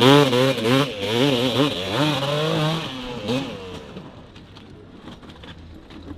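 Dirt bike engine revving hard, its pitch rising and falling quickly as the throttle is worked, then fading away after about three seconds.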